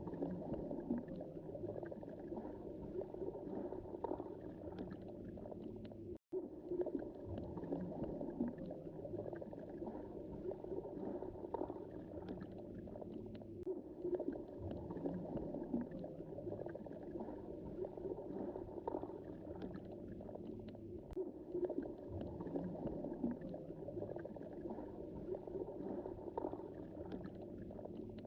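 Underwater sea ambience: a steady, muffled rumble of moving water and wave surge heard from below the surface, with scattered faint clicks and crackles. The sound cuts out completely for an instant about six seconds in.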